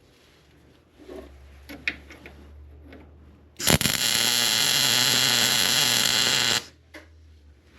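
A single welding bead of about three seconds, a harsh crackling buzz that starts and stops abruptly, with a low machine hum before and after.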